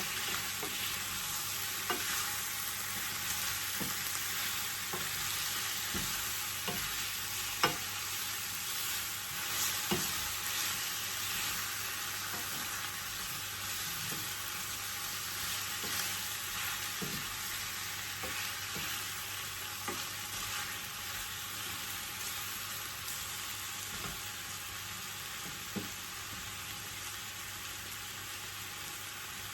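Chicken pieces and onion frying in a pan, a steady sizzle, with a utensil stirring them and knocking against the pan every second or two, one knock sharper about seven seconds in.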